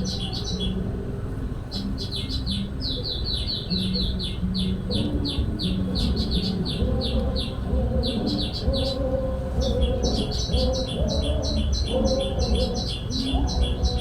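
Little spiderhunter calls: a fast, even run of sharp high chips, about six a second, breaking off briefly about two seconds in and again about eight seconds in. Fainter, wavering lower calls join in the second half, over a steady low rumble.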